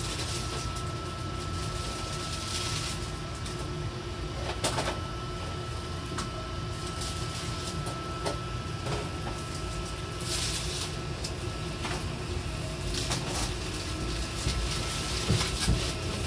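Sound aboard an Odakyu 70000 series GSE electric train: a steady low rumble with a constant high hum and a lower tone, with scattered clicks and knocks.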